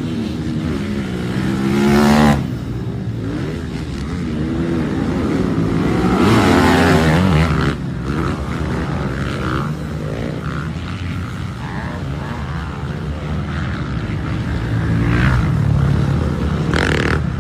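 Motocross dirt bike engines revving, the pitch climbing and dropping as the bikes accelerate and shift. The two loudest runs come about two seconds in and again around six to seven seconds in.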